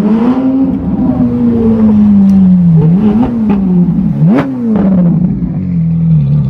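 Ferrari 458's V8 engine driving slowly past at low revs, with sharp throttle blips about three seconds in and again a little after four seconds, then settling back to a steady low note.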